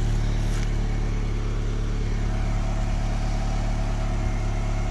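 Chrysler 2.4-litre four-cylinder engine of a GAZ-31105 Volga idling steadily on its first start after a decarbonising soak of the cylinders, burning off the cleaner.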